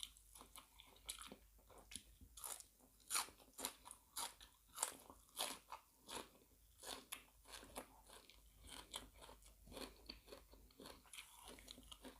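A person chewing close to the microphone, with irregular crisp crunches of raw vegetables and seafood larb, a few a second.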